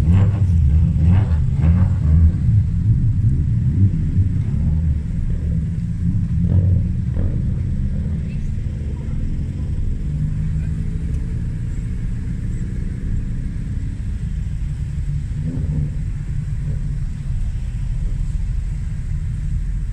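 Several Toyota GT86 race cars rolling past slowly in a column at low revs, their flat-four engines running with a steady low rumble, a little louder in the first few seconds.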